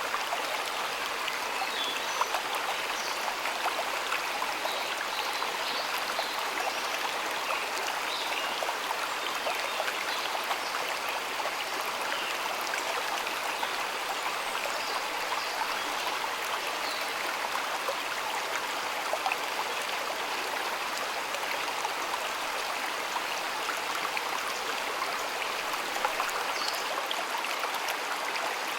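A stream of water flowing steadily, with a constant rushing and small splashes and trickles scattered through it.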